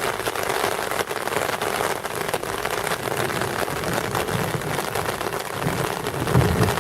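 Heavy rain pouring down in a steady, dense hiss of drops. A low rumble builds in the second half and swells near the end.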